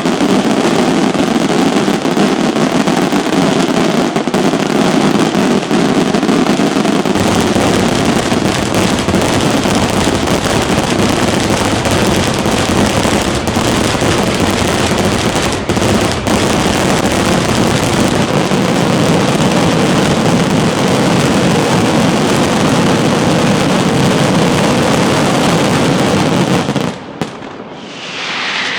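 Professional fireworks display finale: a continuous, dense barrage of shell bursts and crackling with no pause between them, ending abruptly near the end.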